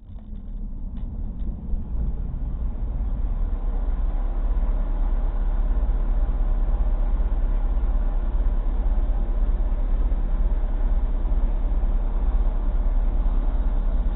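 Steady low rumble of a car driving, with engine and road noise recorded by a dashcam, fading in over the first couple of seconds and then holding steady.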